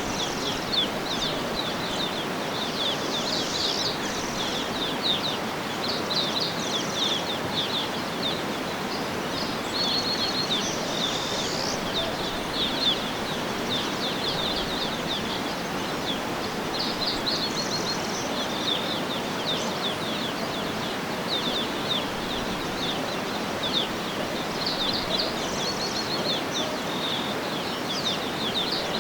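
Many small birds chirping and calling constantly over a steady rushing background noise.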